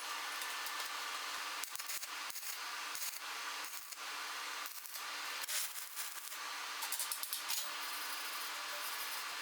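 Stick (shielded metal arc) welding with a 100 V inverter welder and a 2.0 mm covered electrode: a steady crackling, sizzling hiss from the arc, with small irregular pops, that runs on without a break.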